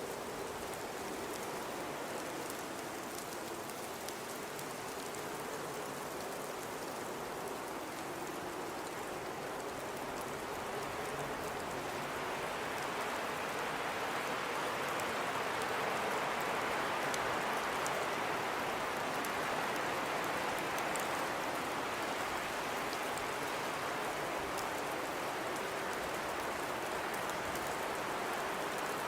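Blizzard wind blowing steadily, swelling into a stronger gust from about twelve seconds in and easing a little near the end.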